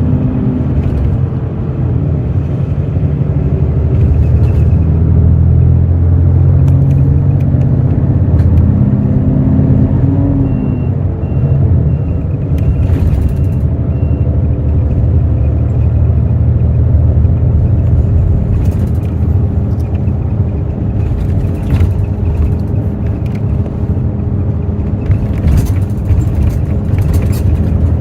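The Hino J08E-VD diesel engine of a Hino RN8JSVU-SSF bus running under load, heard on board. Its pitch climbs and then drops twice as gears are changed. About a third of the way in there are about five short high beeps, and later a few scattered clicks.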